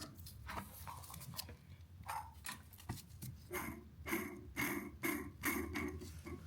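Old kitchen ventilation fan motor with a steady low hum and a rhythmic squealing pulse that becomes regular, about twice a second, from about halfway in; the owner puts the noise down to a rough, worn motor bearing.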